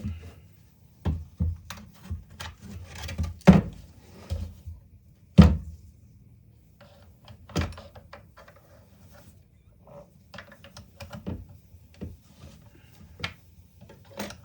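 Irregular clunks, knocks and clicks of metal tools and parts being handled on a workbench while a blade is fitted into an older reciprocating saw's tool-tightened blade clamp. The two loudest knocks come about three and a half and five and a half seconds in.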